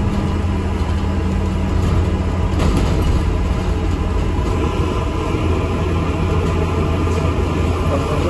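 Inside an ADL Enviro 400 MMC double-decker bus: steady engine hum and cabin rumble.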